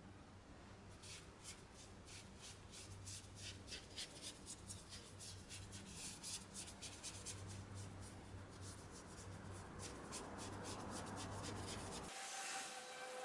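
Rapid, irregular scrubbing strokes of a brush rubbing over a car wheel during washing. About a second before the end it cuts off and a hiss with steady whistle-like tones begins.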